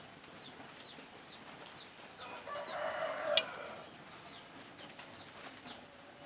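Small birds chirping over and over, about twice a second, with a louder call about three seconds in and a single sharp click right after it.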